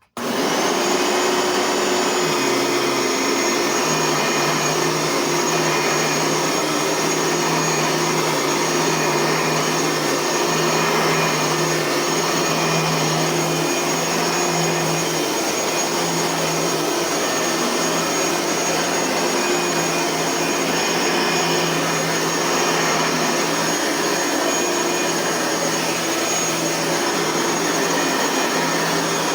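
Bissell vacuum cleaner motor switched on, spinning up within a fraction of a second, then running steadily at full speed with a constant high whine over the airflow rush.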